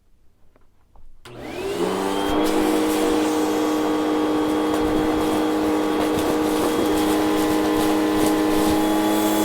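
A vacuum cleaner switched on about a second in, its motor spinning up with a rising whine, then running steadily.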